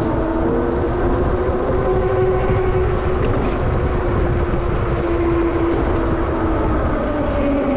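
Denzel Samurai electric dirt bike riding along: its motor gives a steady whine that slowly rises and falls in pitch with speed, over a loud, continuous rumble of wind and road noise.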